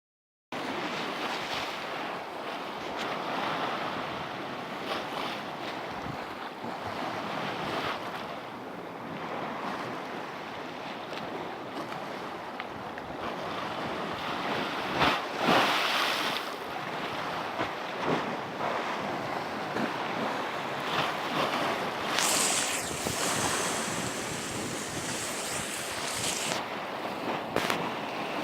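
Black Sea waves washing onto the shore, with wind on the microphone. One wave breaks louder about halfway through, and a sharper hiss of water follows later on.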